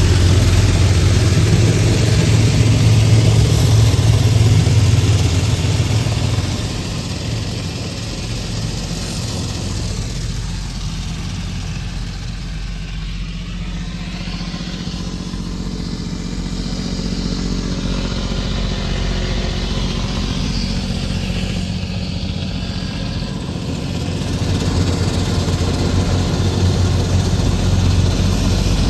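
Steady, low mechanical hum of running machinery, engine-like. It drops in level about six seconds in and rises again near the end.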